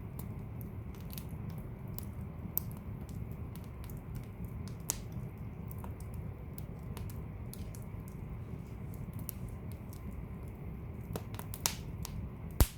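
Wood fire burning in a fireplace: a steady low rumble of flames with irregular sharp crackles and pops, the loudest pops near the end.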